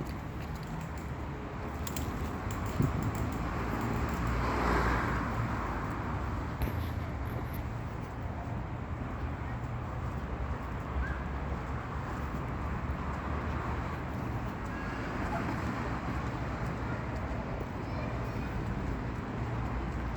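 Steady road traffic rumble, with one vehicle passing close by and swelling up and fading away about four to five seconds in.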